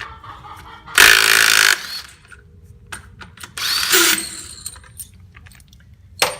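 A power tool run in two short bursts, each under a second, with a sharp click near the end.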